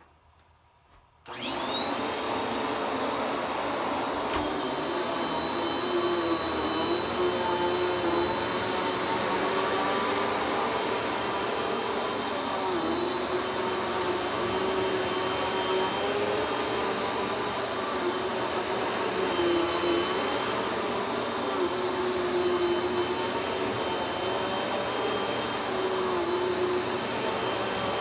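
A vacuum cleaner switched on about a second in, its motor whine rising quickly up to speed and then running steadily, the pitch wavering slightly.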